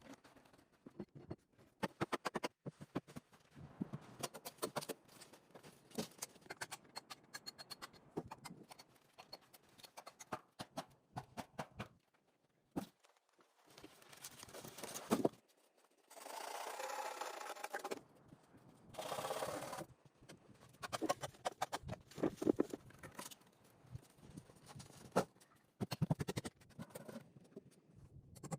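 Scattered knocks and clicks of hands and tools working wood, with two longer scrapes just past halfway.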